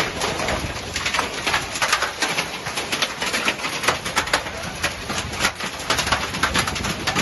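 Hailstones falling in a storm: many sharp impacts in quick, irregular succession, a dense steady clatter.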